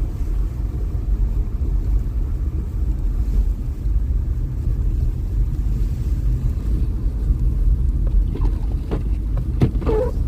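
Steady low rumble of a car driving, heard from inside the cabin: road and tyre noise on a slushy, snow-covered road.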